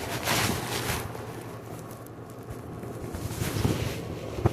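Muffled rustling of clothing rubbing against a phone microphone carried in a pocket, over a steady low hum, with a sharp click near the end.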